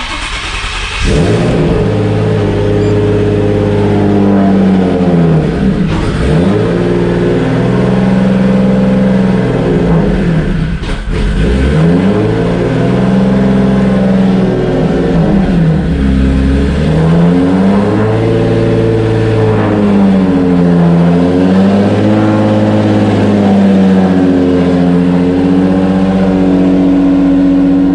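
Turbocharged Nissan 350Z V6 starting with a sudden loud burst, then running, its engine speed repeatedly dipping and climbing back. The engine is very loud in the small, enclosed garage.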